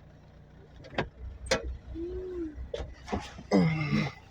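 Car engine idling with a low rumble, with two sharp clicks about a second in and short bits of voice toward the end.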